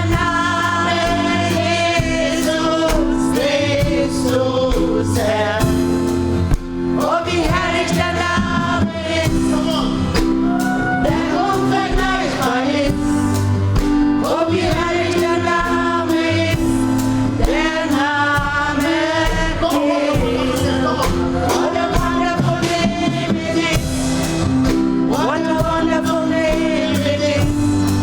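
Gospel choir singing with live instrumental accompaniment: sustained low bass and keyboard notes under the voices and a steady beat.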